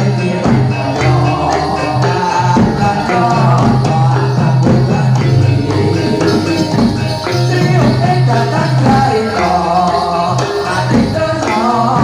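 Live jathilan accompaniment music from a Javanese percussion ensemble. Quick drum and percussion strikes play over a steady low tone, with a wavering melody line above.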